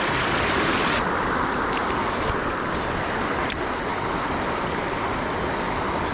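Steady rush of water, with its high hiss dropping off about a second in and a single sharp click about three and a half seconds in.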